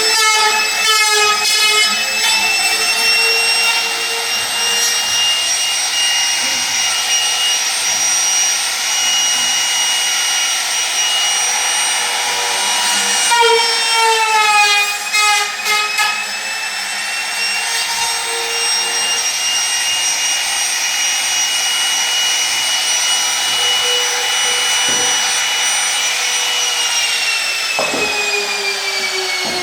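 Electric motor of a woodworking machine running with a steady, high whine that sags and wobbles in pitch for a few seconds midway, then winds down with a falling pitch near the end as it is switched off.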